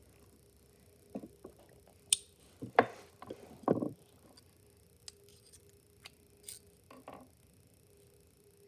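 Hammer striking a hole-punch tool to punch screw holes through a cork gasket: a few knocks about two to four seconds in, the loudest near the middle, followed by lighter clicks and taps of the tool being handled.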